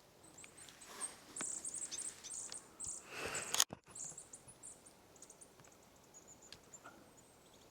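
Small forest songbird giving rapid, very high-pitched chirps and short trills, thick for the first three and a half seconds and thinning out after. A brief rustle sounds just after three seconds.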